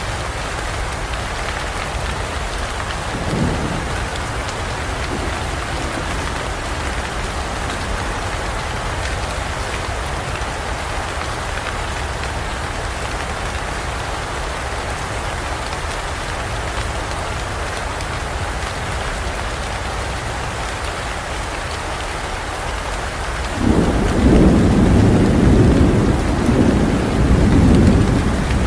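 Steady heavy rain falling in a forest, with a faint low rumble about three seconds in. Near the end a sudden loud roll of thunder breaks in and rumbles for several seconds in two swells.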